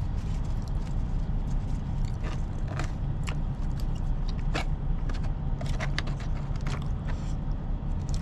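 A man chewing and eating, with scattered short clicks and scrapes of a utensil on a food container, over a steady low hum.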